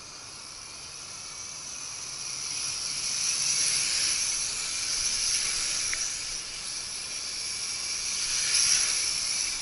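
Nihui U807 mini quadcopter's small motors and propellers whining in flight, the pitch wavering up and down as the throttle changes. It grows louder about three seconds in and again near the end as it comes closer.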